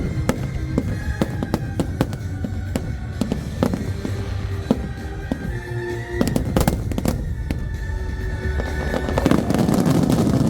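Fireworks bursting in quick succession, with music playing over the bangs. About nine seconds in, a dense crackling of many small fireworks swells up.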